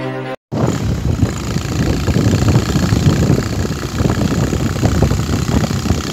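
Motorcycle running on the road, a steady rough noise, starting just after a short burst of music cuts off about half a second in.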